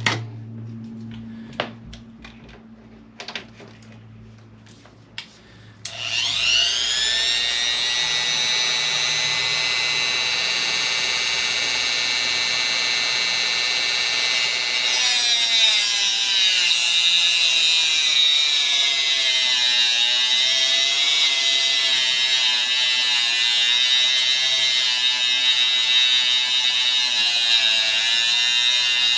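A few light clicks of handling, then about six seconds in a Dremel rotary tool switches on and spins up to a steady high-pitched whine. About fifteen seconds in its pitch starts to waver as it bears down on a seized metal screw, grinding metal.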